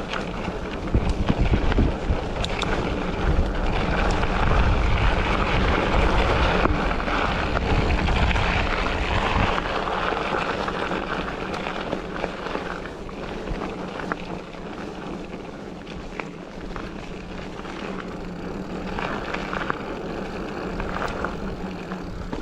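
Wind buffeting the microphone over a steady outdoor rush of noise, as from riding a bicycle; the low buffeting eases after about nine seconds.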